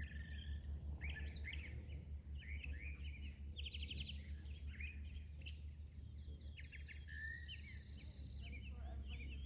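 Songbirds chirping and calling, with several quick rattling trills among short rising and falling chirps, over a steady low rumble.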